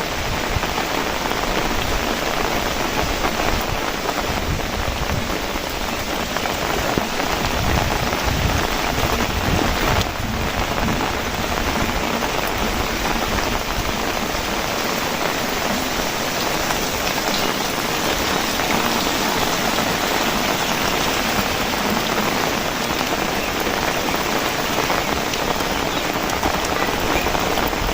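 Heavy rain falling steadily, a dense, even wash of drops on the surfaces all around.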